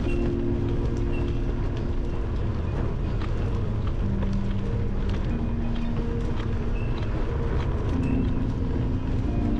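Bicycle rolling over a gravel and dirt trail, heard through a handlebar-mounted camera: a steady low rumble of tyres and wind, with small rattles and clicks from bumps.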